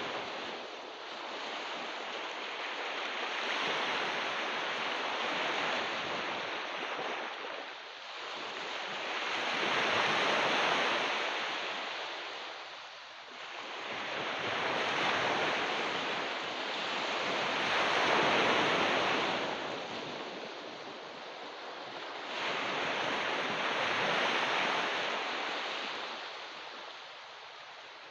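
Ocean waves breaking and washing onto a beach, the surf swelling and fading in slow surges about every five seconds.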